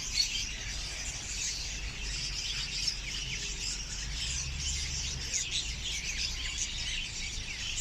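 Many caged pet birds chirping and chattering at once, a dense, continuous chorus of short high calls, over a faint steady low hum.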